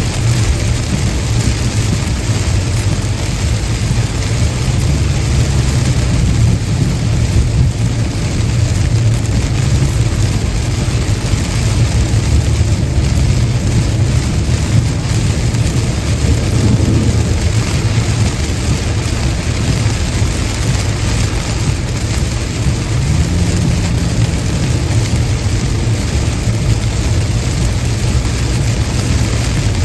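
Car driving at highway speed on a wet interstate: a steady low road and tyre rumble with the hiss of rain and spray.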